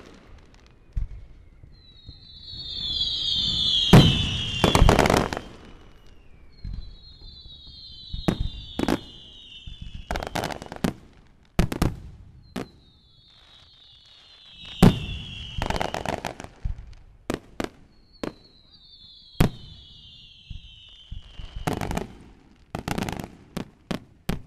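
Fireworks display: about every five seconds, a whistle slowly falls in pitch over a couple of seconds, and sharp bangs from bursting shells come during or after each one, with lighter crackling pops between them.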